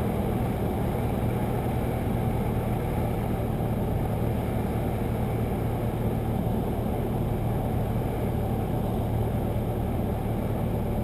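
Steady drone of a Cessna 172 in flight, heard from inside the cabin: the engine throttled back for a simulated engine failure, with airflow noise, on a gliding approach with flaps extended.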